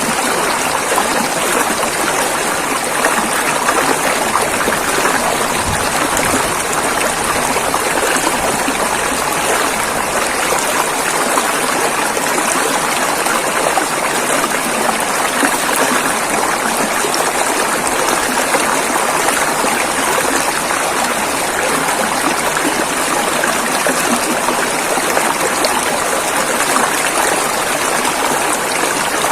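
River water rushing and flowing steadily over rocks, an even wash of noise with no breaks or changes.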